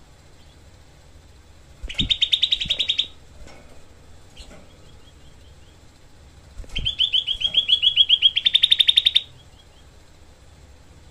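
Cucak kelabu (grey-bellied bulbul) giving two bursts of rapid, tightly packed harsh notes, the 'tembakan rapat' fast-fire call. The first burst lasts about a second; the second runs for about two and a half seconds and speeds up and gets louder near its end.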